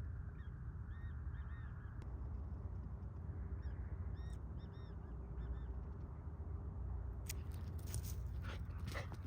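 Short, high animal calls come in two quick runs of a few each, over a steady low rumble. Near the end there is a burst of sharp clicks and rustling.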